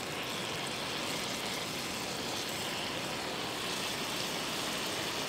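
Broccolini frying in oil in a pan over a portable butane canister stove: a steady sizzle.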